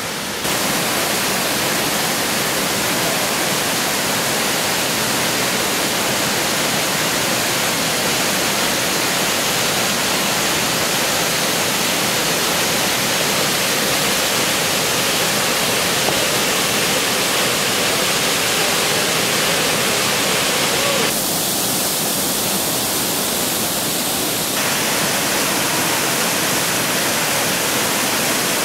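Steady rushing of a mountain waterfall, water pouring and cascading over granite on the Jacob Fork River. About 21 seconds in, the rush turns thinner and hissier for a few seconds, then returns.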